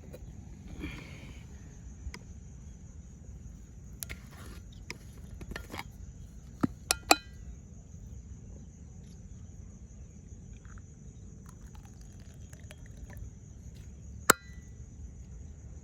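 Scattered sharp clicks and knocks of small hard objects: a quick run of three about seven seconds in, and a single loud clink near the end, both ringing briefly. Underneath is a steady high-pitched hiss and a low rumble.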